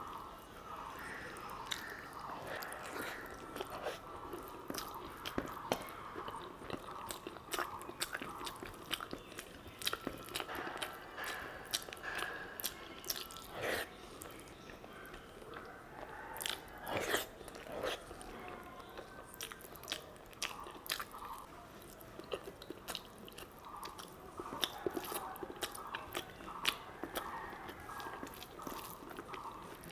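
Close-miked chewing of curry and rice: steady mouth-smacking with many wet clicks and some crunching, a few louder clicks about halfway through.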